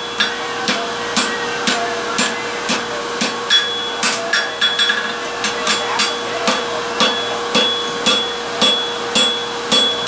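Hand hammer striking hot steel on an anvil, about two even blows a second, many leaving a short high ring, as a welded ring is forged toward a square with corners being formed. A steady hum runs underneath.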